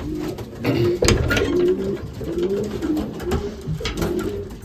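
Racing pigeons cooing in a loft, several low warbling coos repeating one after another, with scattered sharp clicks and knocks among them.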